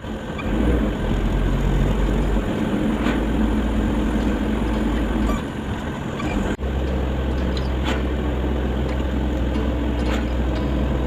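Campervan driving: a steady low rumble of engine and road noise. About six and a half seconds in it cuts out briefly and resumes with a slightly different low tone.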